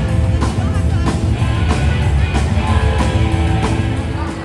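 Rock music with guitar, strong bass and a steady drum beat, dropping in level near the end.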